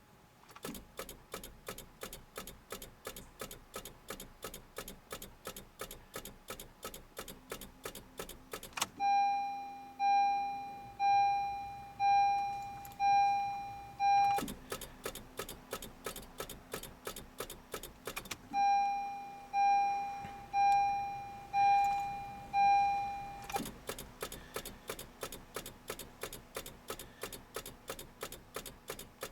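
Rapid, even clicking from a Honda CR-Z's starting circuit, about three to four clicks a second, as the car fails to start at −30 °C. This kind of chatter is typical of a 12 V battery too weak in the cold to crank. Twice a warning chime sounds about once a second for several seconds over the clicking.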